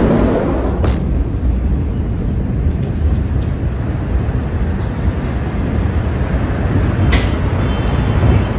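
Steady low rumble following a massive explosion, with two sharp cracks, about a second in and near the end.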